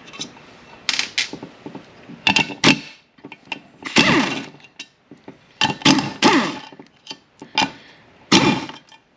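Steel roll pins being worked out of a manual-transmission shift tower with hand tools: a string of short metal-on-metal scraping and clinking bursts, roughly one a second.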